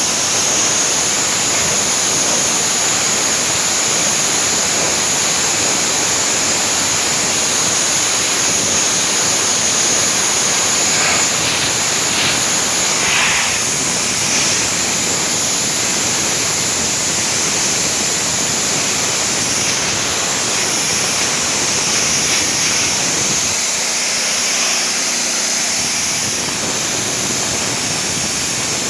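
High-pressure water jet from a Westinghouse 3200 psi gasoline pressure washer blasting a surface, a loud, steady hissing spray, with the washer's engine running under it.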